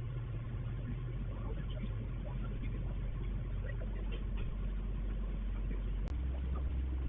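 A steady low hum with faint, indistinct background voices. About six seconds in, a click is heard and the hum steps to a slightly different, stronger low note.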